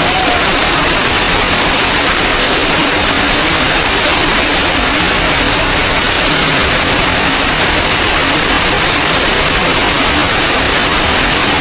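Small forest waterfall: water rushing and splashing in a loud, steady hiss.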